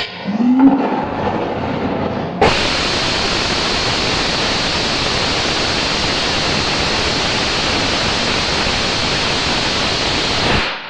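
Rocket engine static test fire. A rough, uneven noise rises in the first two seconds. About two and a half seconds in, the full burn starts suddenly as a loud, steady, hissing roar lasting about eight seconds, then cuts off abruptly near the end.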